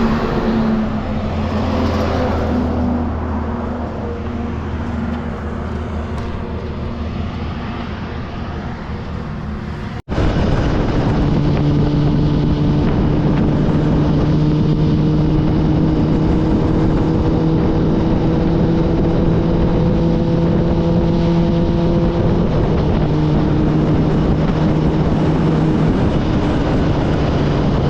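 Kawasaki Ninja ZX-10R motorcycle's inline-four engine running on the road with wind rush. It eases off gradually over the first ten seconds, then after an abrupt cut it holds a steady cruise with the engine pitch slowly creeping up.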